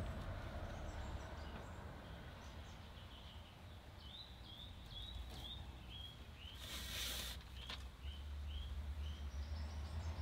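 A small bird chirping, a run of short high chirps about two a second, over a low steady hum. A brief rustling hiss about seven seconds in.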